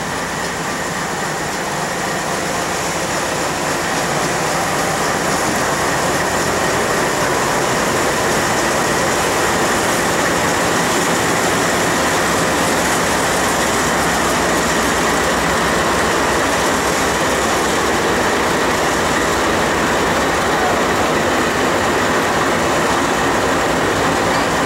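Norfolk Southern freight train's GE diesel locomotives (a D8-40CW leading, then a D9-40C and a D9-44CW) passing close by, their engines running over the steady rumble of wheels on rail. It gets louder over the first few seconds as the units come alongside, then stays steady.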